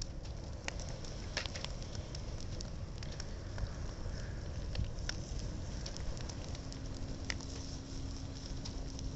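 A bonfire crackling with irregular sharp pops as an old shop signboard burns in it.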